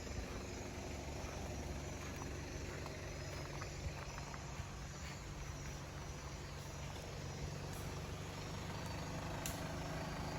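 A vehicle engine idling steadily, with a few faint clicks and snaps over it.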